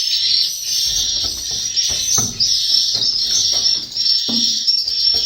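Swiftlets twittering: a dense, continuous chatter of high chirps filling the swiftlet house.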